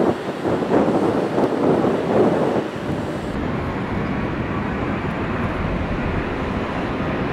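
Jet airliner noise, a steady low rumble. Wind buffets the microphone in gusts during the first two and a half seconds.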